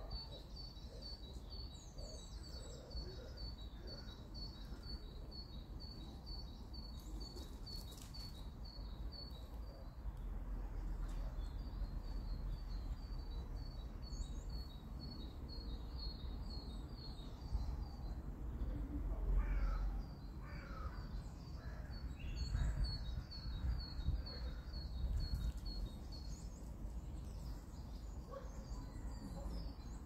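Woodland ambience: a small bird repeats a short high note in long runs. A few lower bird calls come in the second half, over a low wind rumble.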